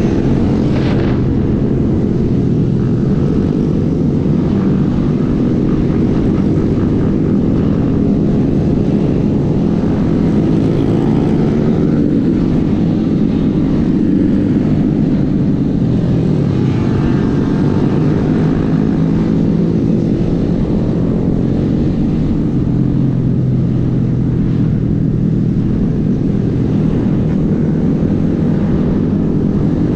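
Small Honda 125 cc single-cylinder motorcycle engine running steadily while under way, its pitch drifting slightly up and down.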